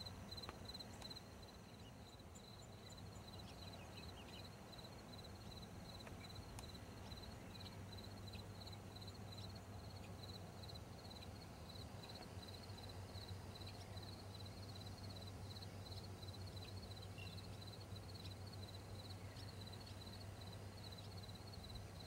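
Faint insect chirping: a steady, even train of short high-pitched chirps, about four a second, over a low steady hum.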